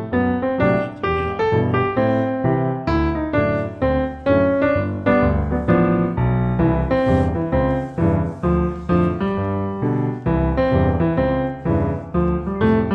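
Background piano music: a steady, even run of notes and chords.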